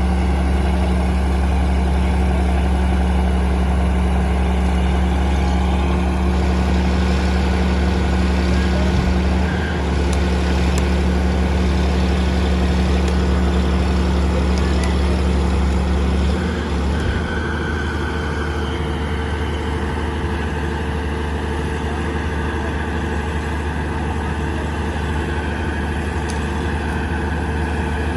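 Heavy diesel engine of construction machinery running steadily with a deep drone. About two-thirds of the way through it eases off slightly and its low hum changes.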